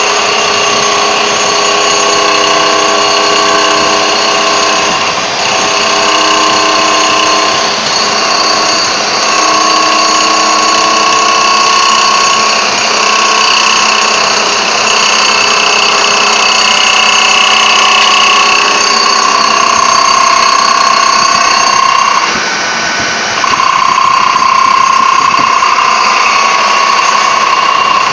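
A power tool profiling the edge of a marble slab, running with a loud, steady high whine. The whine drops briefly about three-quarters of the way through, then picks up again.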